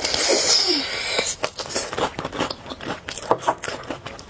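Close-miked eating of spicy noodles: a loud slurp lasting about the first second, then chewing with a run of small wet mouth clicks.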